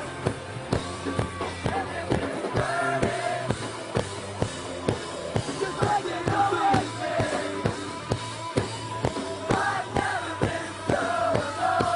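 Live rock band playing an instrumental passage: a drum kit keeps a steady beat of about two hits a second under melodic lead lines.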